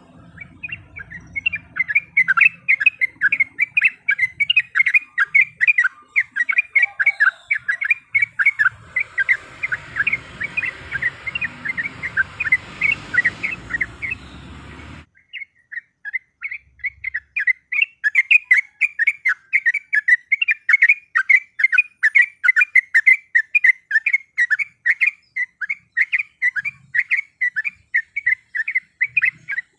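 Sooty-headed bulbul (trucuk) singing a long, rapid run of loud chattering notes, several a second. There is a short break about halfway through, after which the run picks up again.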